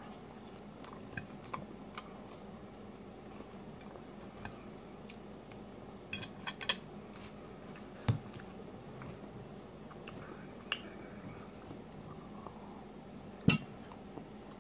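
A person chewing food quietly, with scattered small clicks and knocks of cutlery and dishes. A louder knock comes about halfway through and a sharp click near the end.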